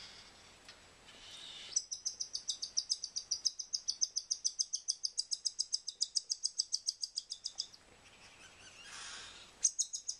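Cockatiel chirping: a fast, even string of high chirps, about seven a second, lasting some six seconds, then starting again near the end.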